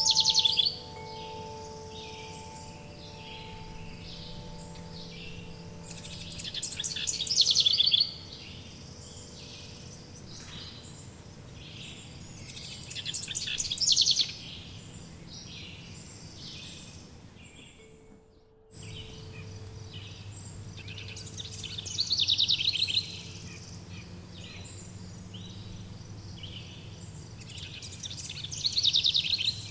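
Songbird chorus: a bird sings a loud trilled phrase about every six to seven seconds, five times in all, among softer chirps from other birds over a steady outdoor hiss. Faint sustained low tones hum underneath, and the sound drops out briefly about two-thirds of the way through.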